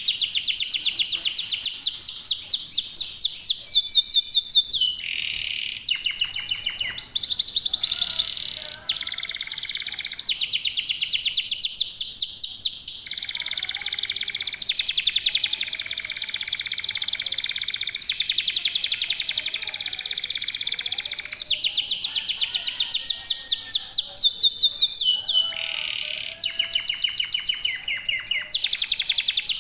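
Domestic canaries singing continuously, with several birds joining in. The song is fast trills and rolls of rapidly repeated high notes that change every few seconds.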